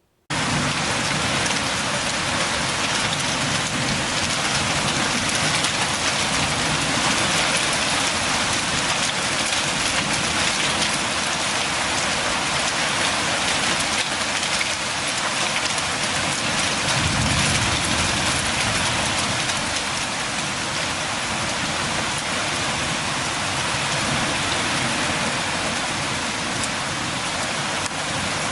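Steady rain falling and pattering on surfaces, an even wash of sound that cuts in suddenly at the start. A brief low swell comes a little past halfway.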